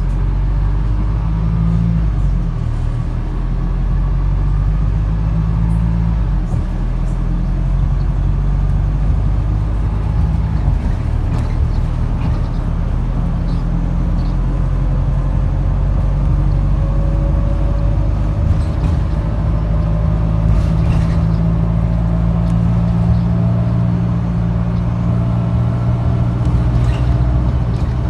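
Diesel engine of a Wrightbus StreetDeck double-decker bus running while the bus is under way. Its low note shifts a few times, and a faint whine rises in pitch in the second half.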